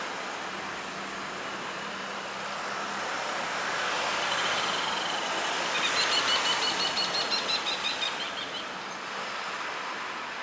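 Agusta-Westland AW139 twin-turbine helicopter running, a steady rush of turbine and rotor noise that swells about four seconds in. A high turbine whine pulses rapidly with the rotor for a couple of seconds before easing.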